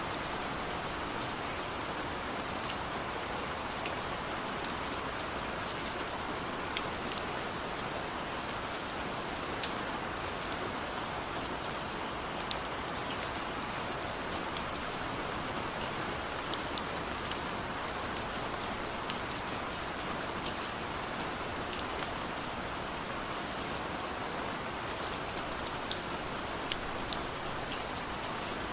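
Steady rainfall hissing, with scattered individual drops ticking on a surface.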